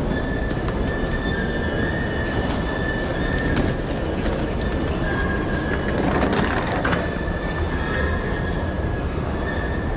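A train moving in a station, with a steady high squeal over a low rumble. The noise swells briefly about six seconds in.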